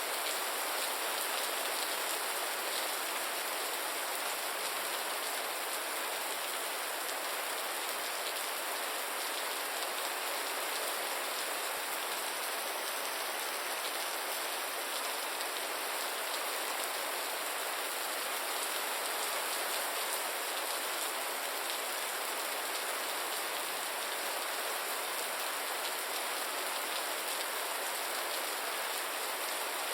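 Gentle rain falling steadily: an even, unbroken hiss of many drops.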